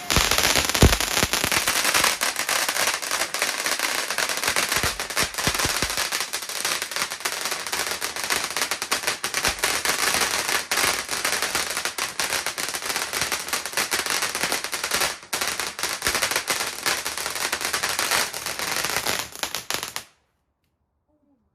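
Fireworks crackling densely and continuously, a rapid mass of small sharp pops. It stops suddenly near the end.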